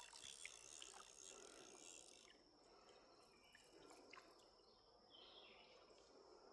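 Near silence: faint creekside ambience with a steady, high-pitched insect trill.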